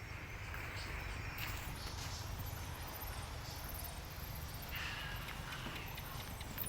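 A group of small birds chirping, with quick, very high-pitched chirps repeating over a low steady rumble.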